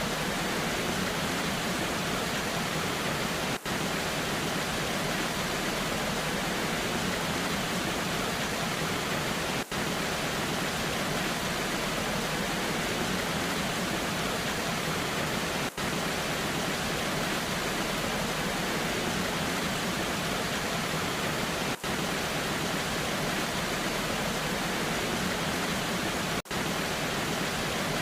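Steady, even rush of a waterfall in the rain, with a very brief dip in level about every six seconds.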